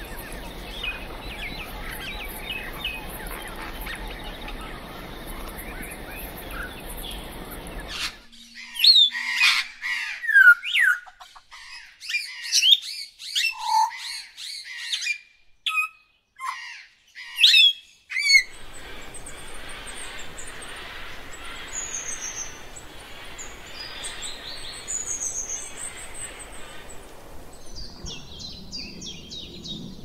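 Birds calling over a steady background hiss: faint chirps at first, then about ten seconds of loud, sharp squawks and whistled calls that glide quickly up and down, then scattered high chirps again over the hiss.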